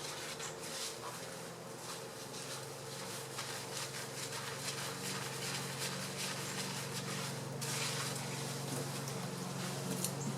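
Revlon One Step hair dryer brush running: a steady blowing hiss with a low motor hum.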